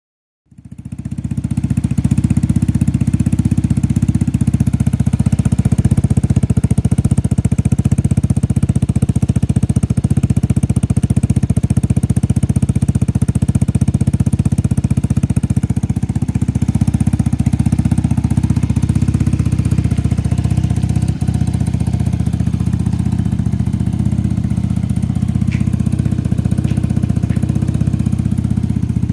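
A Vespa automatic scooter's single-cylinder engine running steadily through an aftermarket Triton Marves Series carbon-fibre and stainless-steel exhaust, with a deep, even exhaust note. It fades in over the first second or two and then holds steady, with no revving.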